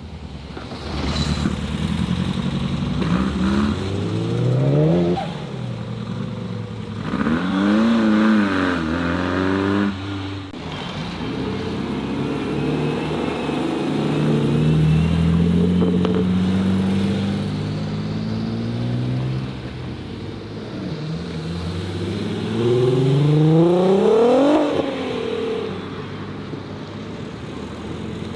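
Modified cars accelerating away one after another, engines revving up in several rising sweeps. The loudest rev climbs sharply near the end, with a steadier engine pull in the middle.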